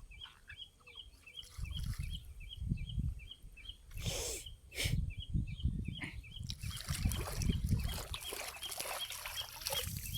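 A small creature's high chirp repeating about three times a second, fading out after about six seconds, over low thumps and rustling. There are a couple of short noisy bursts around four to five seconds in.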